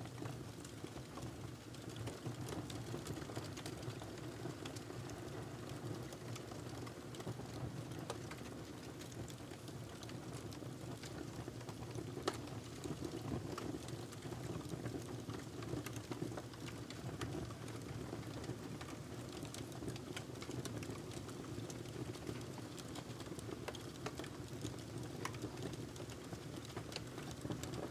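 Wood fire crackling in a fireplace: frequent small pops and snaps, irregularly spaced, over a steady low rumble and hiss of the burning fire.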